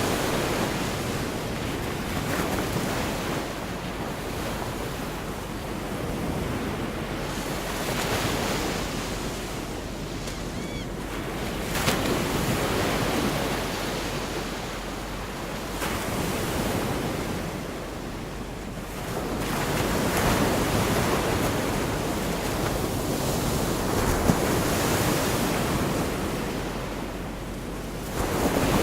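Gulf of Mexico surf: waves breaking and washing up the beach, the rush swelling and fading about every four seconds.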